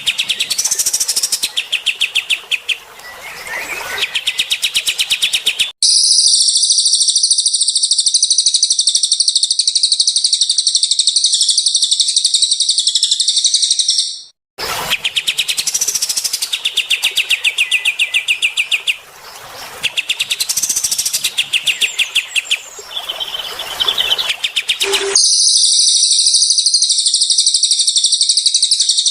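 Cililin and kapas tembak songbirds singing: quick runs of rapid, repeated chattering chirps alternate with long stretches of a dense, high, unbroken trill. The trilling stretches start and stop abruptly, cutting in about six seconds in and again near the end.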